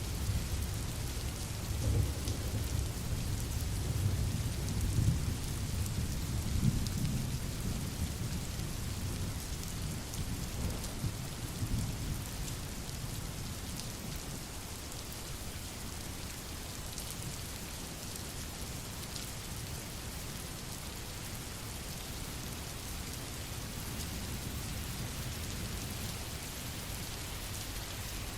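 Steady rainfall, with low rumbles of thunder in the first half that die away.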